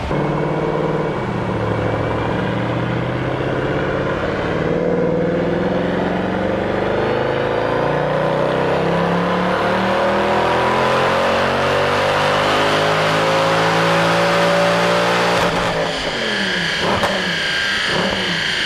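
Porsche 911's naturally aspirated flat-six on a chassis dynamometer, pulling a full-throttle run in fourth gear against heavy brake load. The revs climb steadily for about fifteen seconds, then the throttle is lifted suddenly and the engine note drops away.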